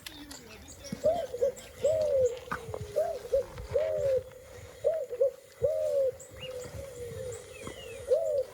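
A bird giving repeated short hooting calls, about one a second, each note rising and falling in pitch.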